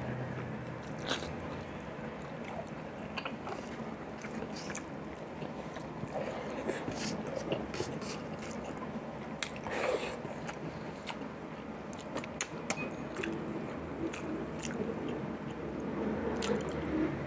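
Close-up chewing of a mouthful of beef and rice, with wet mouth smacks and scattered small clicks.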